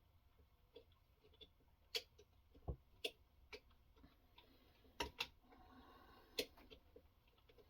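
Quiet, irregular clicks and taps, about seven of them, one lower knock among them, from a guided knife-sharpening rig being handled, with a faint scraping hiss in the second half.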